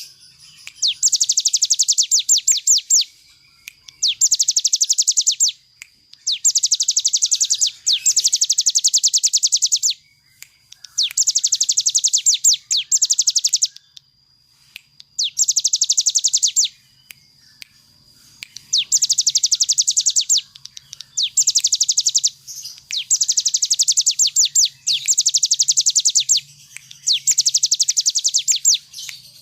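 Ciblek gunung singing its fast trilling 'ngebren' song: bursts of very rapid, high repeated notes lasting a second or two each, following one another with short pauses. A faint low hum sits underneath.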